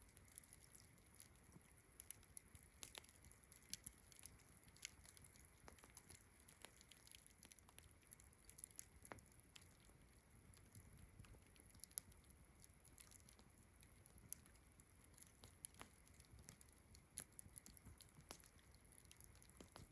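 Campfire crackling, with irregular small sharp pops and snaps, over a steady high-pitched chirring of crickets.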